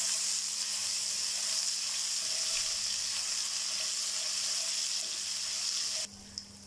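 Ginger-garlic paste and whole spices sizzling in hot oil in a wok: a steady frying hiss that cuts off suddenly about six seconds in.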